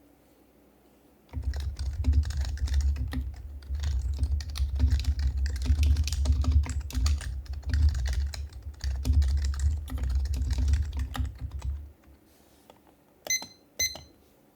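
Fast, continuous typing on an HHKB Professional HYBRID Type-S keyboard, its silenced Topre switches giving soft clacks with a deep thud. It starts about a second in and stops a couple of seconds before the end. Two short high beeps follow.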